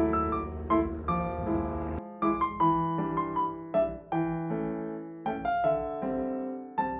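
Solo piano background music, single notes and chords struck one after another and left to ring. A low background rumble underneath cuts out about two seconds in.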